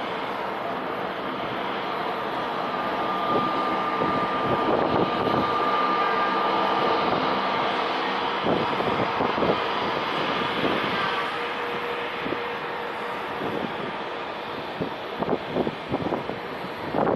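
Jet engines of an Airbus A320neo (CFM LEAP-1A) at takeoff power on the takeoff roll: a steady roar with a thin whine that swells to its loudest midway and then eases off. Wind gusts buffet the microphone near the end.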